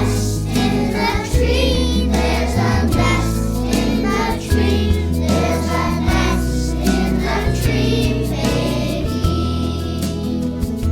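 A group of young children singing together, with an instrumental accompaniment carrying a steady bass line.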